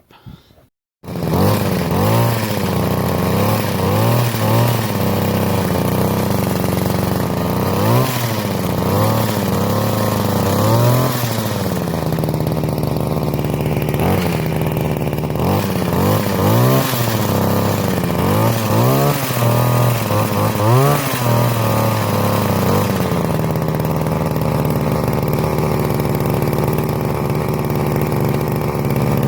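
Petrol two-stroke engine of a Sovereign QJB23 hedge trimmer running after its bull gear replacement. The throttle is revved up and down repeatedly, then the engine holds a steady speed for the last several seconds.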